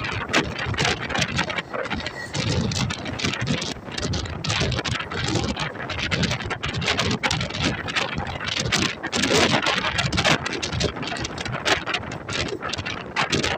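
Indian Railways passenger train in motion: steady running noise with many short, irregular clattering knocks, and wind buffeting the microphone.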